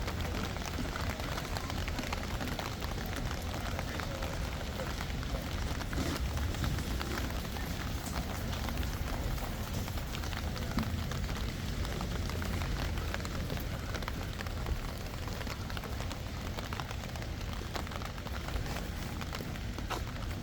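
Steady rain falling, a continuous hiss flecked with many small drop ticks, over a low rumble.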